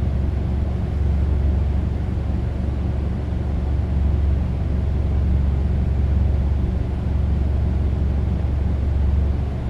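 A steady low rumble with a slowly wavering level.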